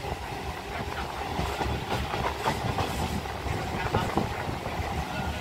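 Suburban electric local train running along the line: a steady rumble of wheels on track, with irregular clicks and knocks as the wheels pass over rail joints.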